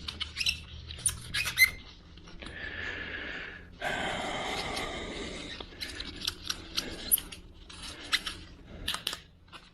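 Hand work on a car's steering-wheel mount: sharp clicks and knocks of tools and metal parts, with a rubbing squeak for about a second and a half and then again, louder, for about two seconds in the middle.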